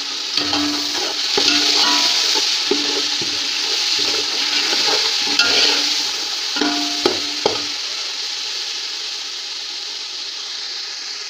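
Onion, tomato and spice masala sizzling hard in hot oil in a steel pot, just splashed with water, the hiss swelling over the first second or so and easing in the second half. A slotted steel spoon clinks and scrapes against the pot in two spells of stirring.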